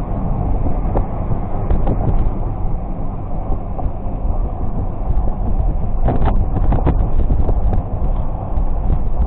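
Wind buffeting the microphone: a loud, uneven rumbling rush, strongest in the low end, with a few sharp clicks about six to seven seconds in.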